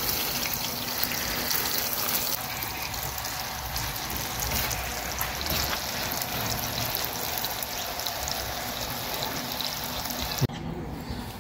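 Sliced potatoes sizzling in hot oil in a shallow pan over a wood fire as they are stirred, a steady hiss with small crackles. The sizzle cuts off abruptly near the end.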